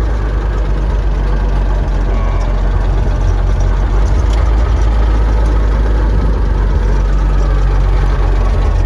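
Six-cylinder engine of a 1940–41 Chevrolet army dump truck running steadily, a low, even rumble throughout.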